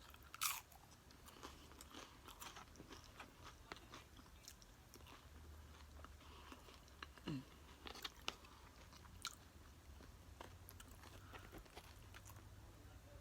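Close-miked chewing and crunching of tortilla-chip nachos: faint, irregular crunches and mouth sounds, with a few louder bites about half a second in and again around seven to nine seconds.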